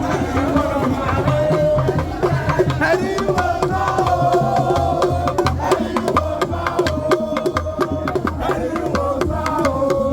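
Drumming with voices singing over it: a steady drumbeat with sharp clicking percussion and wavering sung lines.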